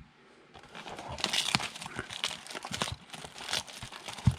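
A trading-card pack or box wrapper crinkling and tearing as it is opened by hand: a dense crackle of small clicks starting about half a second in, with a sharp knock near the end.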